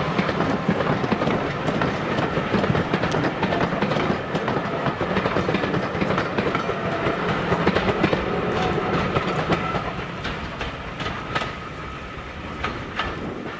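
Steam-hauled train running past, its wheels clicking over the rail joints, the sound fading over the last few seconds as it goes away.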